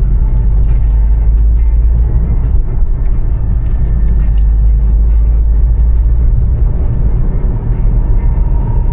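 Steady, loud low rumble of a car on the move, heard from inside: road and engine noise.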